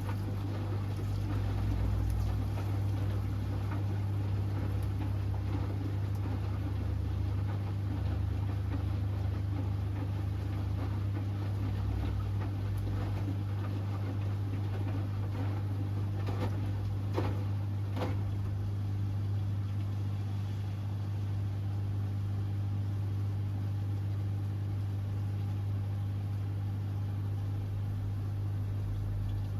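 Hoover Axi 10kg washing machine running mid-cycle, a steady low hum over a whirring noise with a couple of faint clicks.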